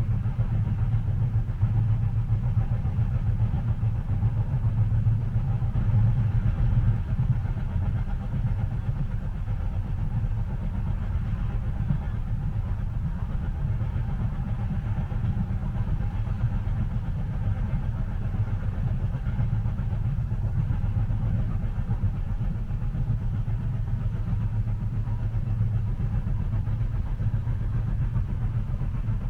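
Steady, even low rumble of a train cabin while the train is under way.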